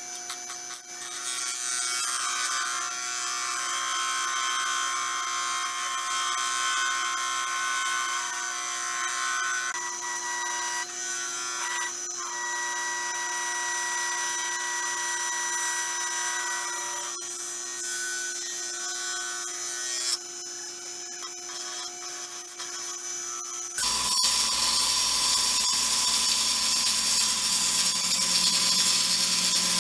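Wood lathe running with a turning tool cutting a spinning blank of stabilized sticks and resin: a steady motor hum under a scraping, shaving cut. About three-quarters of the way through the sound steps up suddenly and gets louder.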